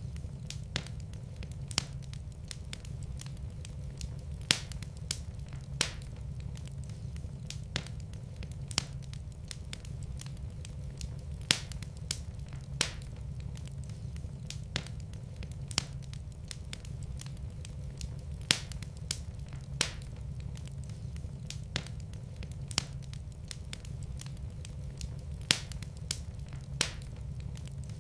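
Wood fire burning in a fireplace: sharp, irregular crackles and pops about once a second over a steady low rumble of the flames.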